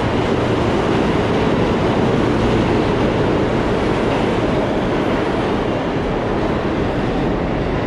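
New York City subway train running through the station, a loud steady noise with no clear rhythm.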